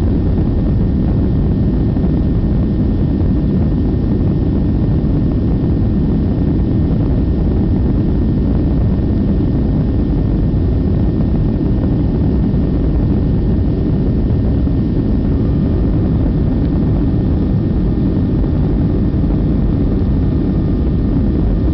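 Boeing 737 jet engines and rushing air heard inside the passenger cabin: a steady, loud, low noise during the climb after take-off.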